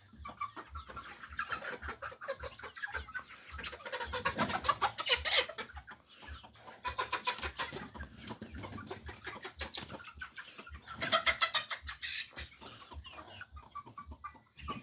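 Flock of chickens clucking and squawking in a pen, many birds calling over one another, with louder bursts of calls about four seconds in and again around eleven seconds.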